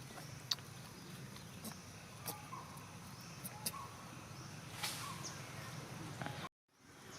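Quiet outdoor ambience with a few short, faint chirps and scattered sharp clicks. The sound cuts out completely for a moment near the end.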